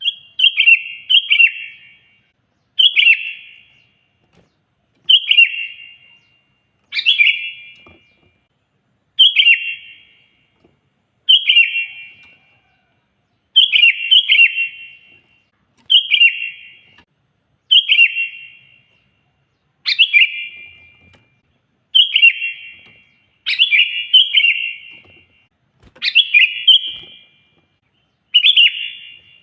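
Sooty-headed bulbul singing loudly: a short, bright, chattering phrase repeated about every two seconds, with brief pauses between phrases.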